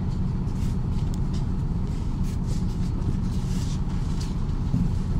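Cabin noise of a MAZ-103 city bus under way: a steady low rumble of engine and road, with faint light rattles now and then.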